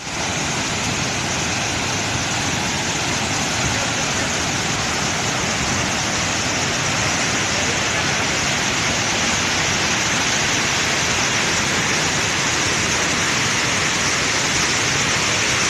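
Waterfall: a steady rush of falling water, growing a little louder towards the end.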